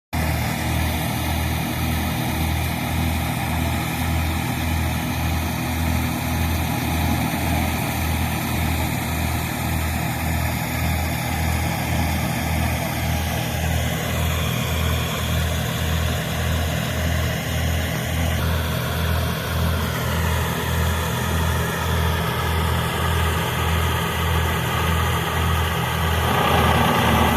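Tractor diesel engine running steadily with an even, rhythmic low throb; some of its higher tones shift partway through and it grows a little louder near the end.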